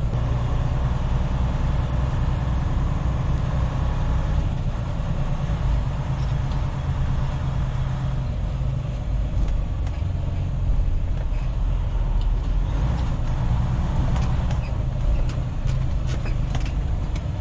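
Semi-truck's diesel engine running steadily with a low drone.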